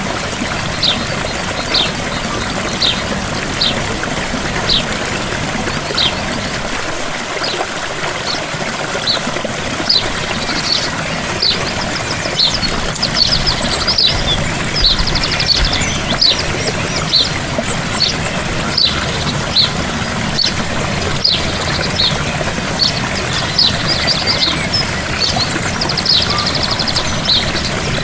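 Gentle waterfall pouring steadily, with a bird giving short high chirps about once a second and, from about halfway on, a few rapid trills.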